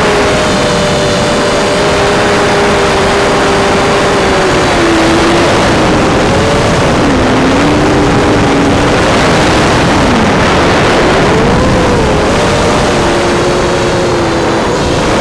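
FPV racing quadcopter's brushless motors (Rotor Riot Hypetrains) and propellers whining, heard from on board over heavy wind rush, with several pitches rising and falling together as the throttle changes.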